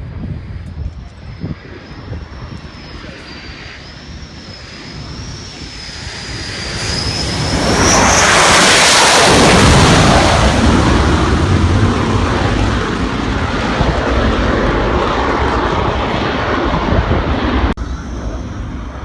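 Military jet aircraft passing close: a high turbine whine grows for several seconds, then a loud rushing roar of jet noise peaks about halfway through and slowly eases off before cutting off suddenly near the end.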